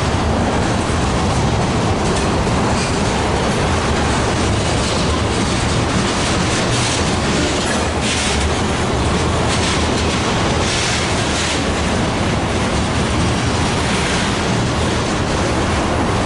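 A freight train's cars rolling steadily past on the track, with a loud, even rumble and rattle of wheels on rail.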